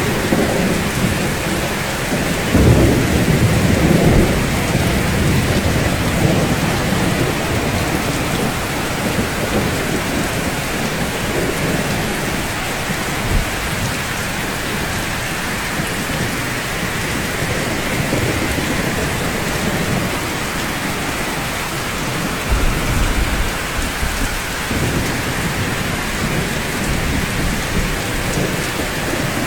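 Steady rain falling on rooftops, with low rolls of thunder rumbling in the first few seconds and again about three-quarters of the way through.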